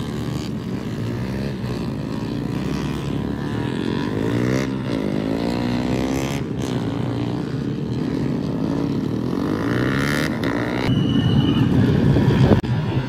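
Several small underbone racing motorcycle engines idling and revving together, their overlapping engine notes rising and falling. The sound grows louder near the end.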